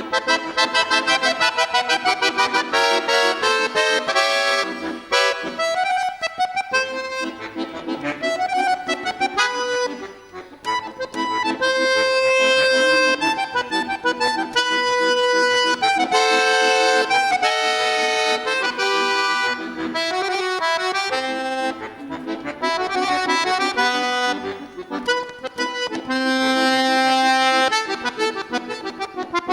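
Bayan (Russian button accordion) playing a pop piece: quick runs of notes alternating with held chords.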